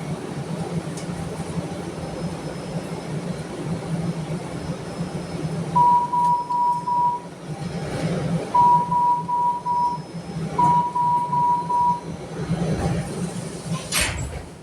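MARTA Breda rail car humming steadily. Midway there are three short runs of high electronic beeps, four or five beeps each, and a sharp knock comes near the end.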